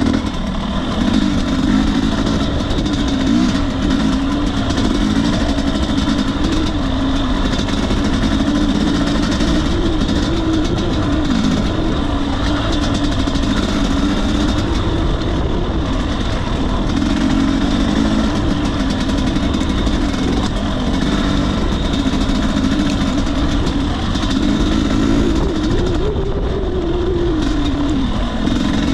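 Two-stroke single-cylinder engine of a 2021 Husqvarna TE250i dirt bike running steadily at moderate revs, its pitch wavering up and down with the throttle and rising briefly near the end.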